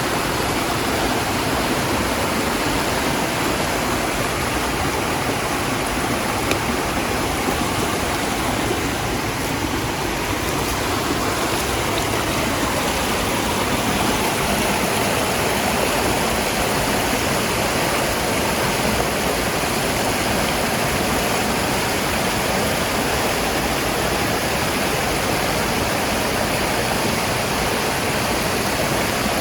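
Steady rushing of flowing water, an even hiss and roar that does not change.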